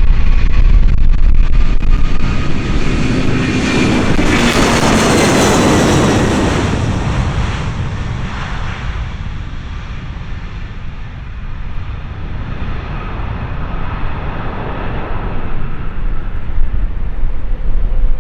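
Heavy jet airliner's engines at takeoff power passing close by: a loud rumble with whining tones that peaks about five seconds in, the pitch dropping as it goes past, then fading to a distant roar.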